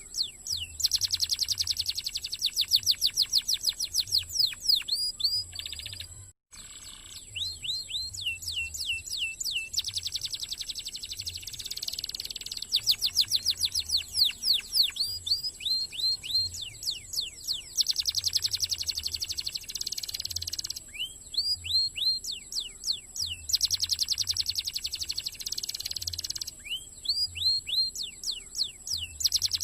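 Domestic canary singing a fast, dense song: long rapid trills of high sweeping notes alternating with slower runs of rising chirps, with a brief break about six seconds in.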